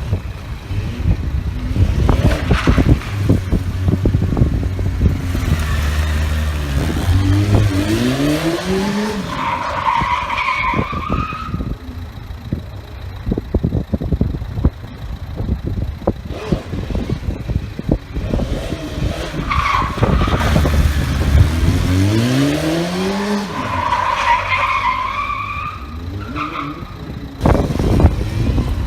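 Stunt motorcycle engine running low, then revving up in a rising sweep twice, each rise followed by tyre squeal.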